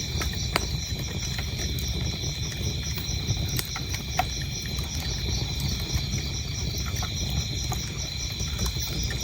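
Wood fire burning in a fireplace with a low rumble and scattered crackles and pops, over crickets chirping in a steady, even rhythm.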